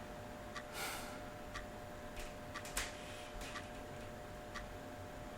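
Clock ticking softly in the background, with a faint steady hum underneath.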